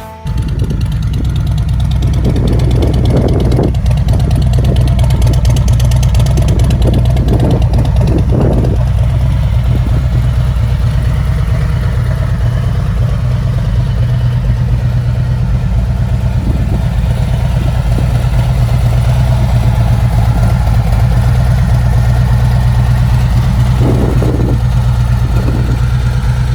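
Harley-Davidson Milwaukee-Eight V-twin running through S&S headers and SVT Jackhammer mufflers, idling with a steady low exhaust note.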